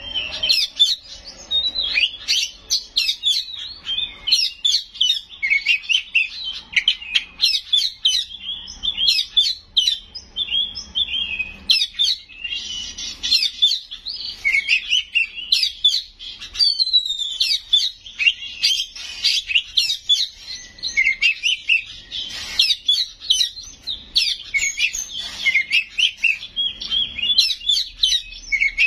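Oriental magpie-robin (kacer) singing without a break: a fast, varied stream of loud whistles, chirps, sweeps and trills, full of mimicked calls of other birds.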